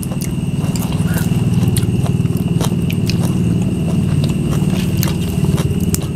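People chewing and eating at a table, with scattered small clicks, over a steady, rapidly pulsing low drone.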